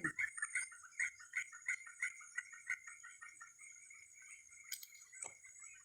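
A rapid series of chirping animal calls, several a second, that thins out and fades over the first few seconds, over a steady high-pitched drone. There is a faint knock near the end.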